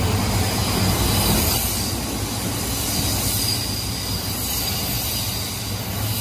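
A Yokosuka/Sobu Line commuter train running alongside an underground station platform. Its wheels and cars give a steady rumble with a faint high squeal over it, and the level eases off a little after about two seconds.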